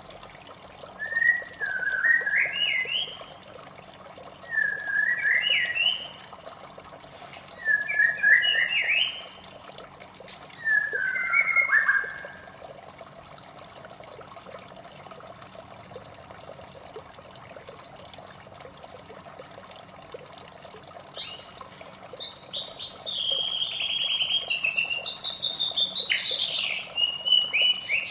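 White-rumped shama singing: four short rising whistled phrases a few seconds apart, then a pause, then a long, varied run of song with higher notes near the end. Steady running water in the background.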